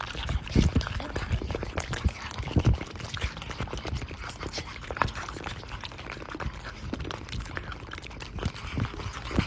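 Rice Krispies cereal crackling in a bowl of milk: a steady run of irregular small snaps and pops.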